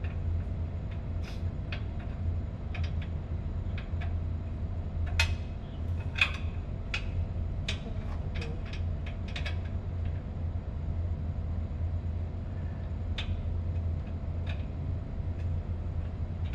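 Scattered light metallic clinks and knocks of hand tools working on an electric motor's mounting, thickest between about five and ten seconds in, over a steady low machinery hum.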